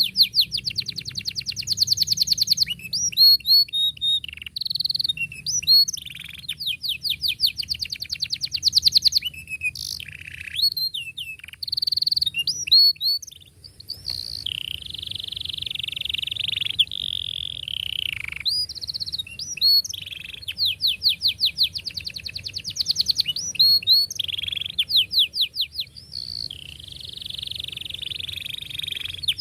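Domestic canary singing a long, continuous song of fast repeated trills, sharp chirps and rolling buzzy passages.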